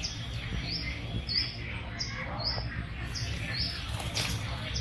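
A bird repeating a short, high chirp about every half second over a low, steady rumble, with a single sharp click near the end.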